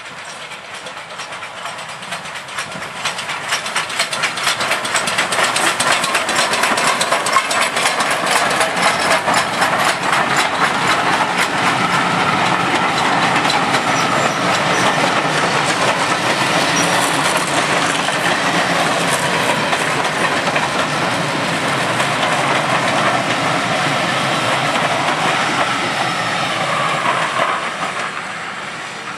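A steam-hauled passenger train running past at speed, with the coach wheels clicking rapidly over the rail joints. The sound builds as the locomotive comes near and stays loud while the coaches roll by, then fades as the last coach goes past near the end.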